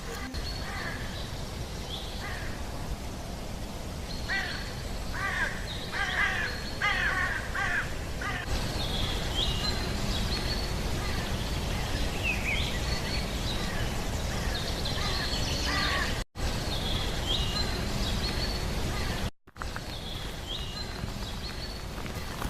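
Birds calling outdoors: short high chirps repeat throughout, and a run of harsher caws comes about four to eight seconds in. A steady low wind rumble on the microphone runs underneath, and the sound cuts out briefly twice near the end.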